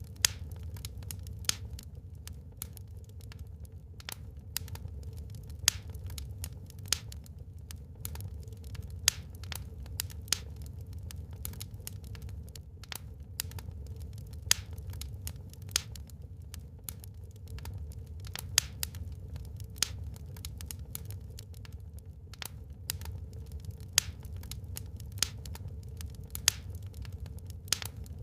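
Wood fire crackling in a fireplace: irregular sharp pops and snaps, several a second with louder ones every second or two, over a steady low rumble of the burning.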